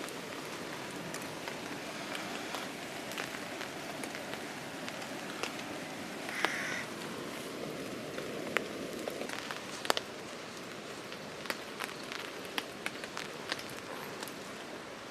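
Steady rain falling, with scattered sharp ticks of drops striking close by, more of them in the second half.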